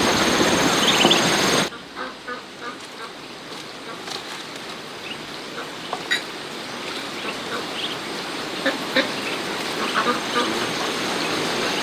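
Rushing water for under two seconds, then a cut to ducks quacking in short, scattered calls.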